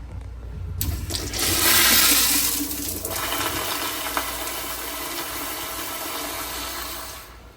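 Public restroom toilet flushing: a sudden rush of water about a second in, loudest for the first couple of seconds, then a steady rush that stops abruptly shortly before the end.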